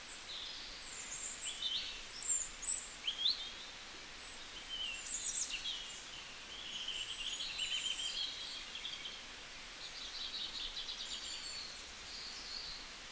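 Small birds chirping and twittering, short rising and falling calls scattered through, with a rapid trill about ten seconds in, over a steady hiss.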